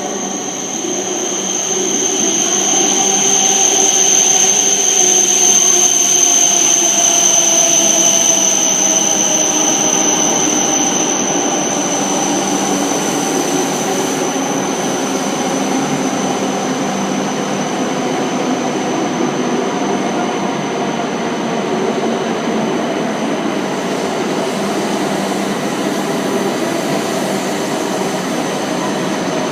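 Hokuriku Shinkansen train running through the station: a steady high whine over a dense rail rumble. The sound swells over the first few seconds, then eases slowly, while the lower tones fall gradually in pitch.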